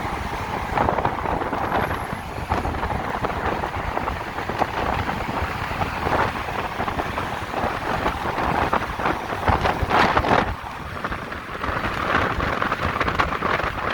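Wind rushing and buffeting over the microphone while riding, mixed with road noise, in uneven loud gusts.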